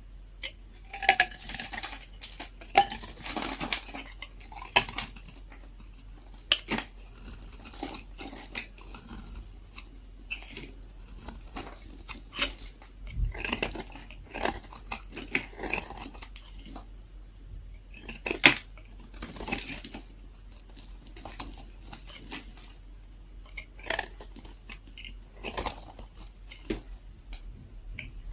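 A knife cutting through very dry leftover bar soap, giving irregular crisp scrapes, crunches and clicks about every one to two seconds.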